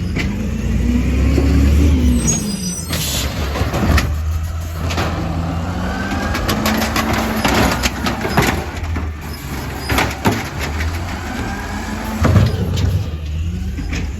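Compost collection truck's engine running, its pitch rising and falling, with repeated knocks and clanks and a short hiss about three seconds in.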